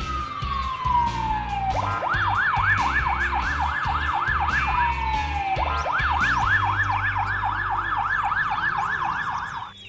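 Ambulance siren: a long falling wail, then a fast yelp rising and falling about three times a second, a second falling wail and more yelping, cutting off suddenly just before the end.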